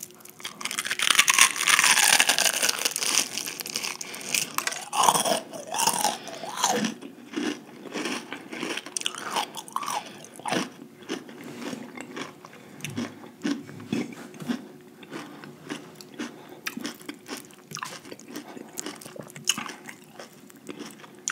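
A crunchy bite into a breaded, deep-fried lobster tail close to the microphone, loudest from about one to four seconds in, followed by steady chewing with many small crunches.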